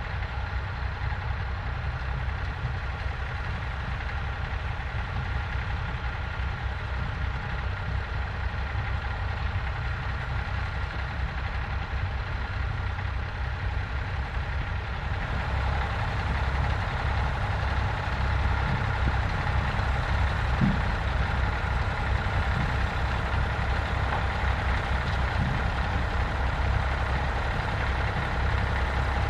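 Vintage tractor engine running steadily in the field, getting louder about halfway through.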